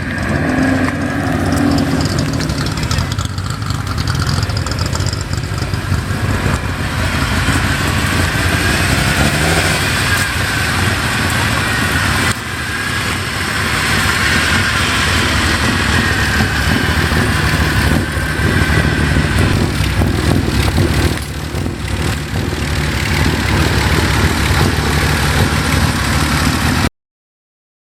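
Classic Nissan car engine running, its exhaust and intake both heard, the level swelling and easing in places; it cuts off abruptly near the end.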